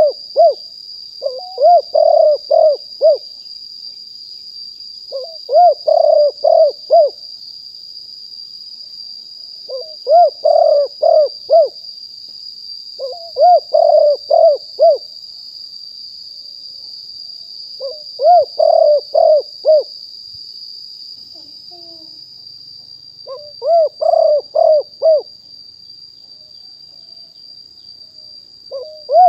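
Spotted dove cooing: repeated phrases of four or five low coos, one phrase about every four seconds, seven times over.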